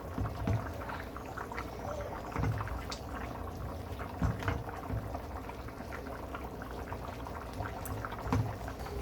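Pot of coconut rice bubbling on the boil, with a few soft knocks, about four, scattered through.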